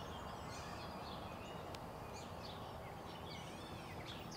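Songbirds chirping and whistling faintly over a steady outdoor background hiss, the calls growing more frequent in the second half.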